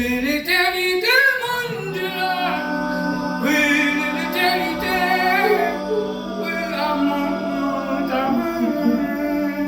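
Several voices singing a maloya song together without percussion, over a low note held steady underneath.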